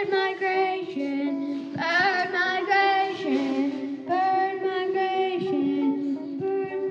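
A child singing held, wavering notes of a song over instrumental accompaniment.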